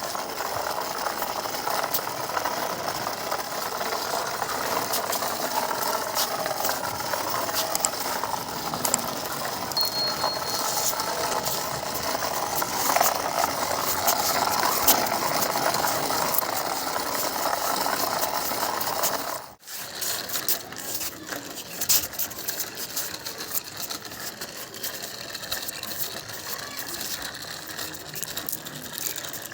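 Plastic toy vehicles being handled, a continuous clatter of small clicks and rattles, broken by a short cut about two-thirds of the way in.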